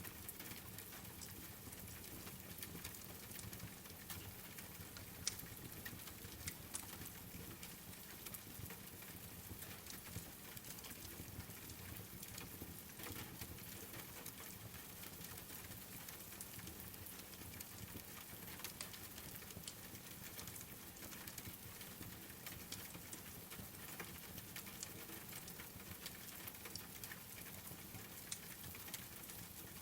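Steady rain pattering, mixed with the light crackle of a wood fire, with small clicks and pops scattered throughout and one sharper pop about five seconds in.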